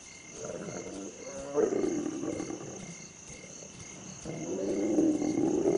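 Lions growling in two long bouts of about two to three seconds each, over a steady chirping of crickets.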